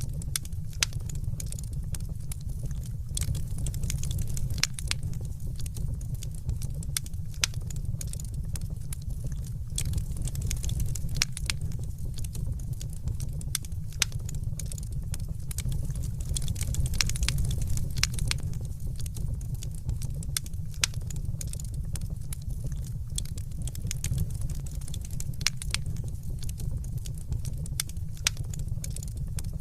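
Fireplace fire crackling: a steady low rumble of burning with many sharp, irregular pops and snaps.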